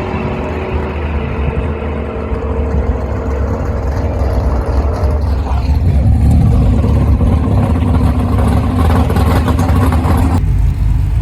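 Twin-turbo Camaro drag car's engine running hard during an eighth-mile pass: a loud, dense low rumble that swells about halfway through and changes abruptly near the end.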